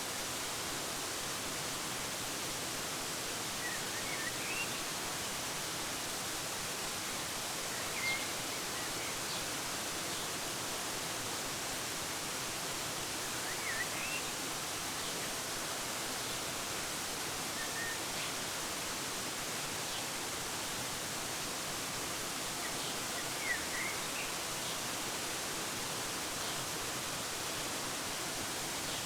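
Waterfall rushing steadily, with a bird giving short groups of rising chirps every few seconds.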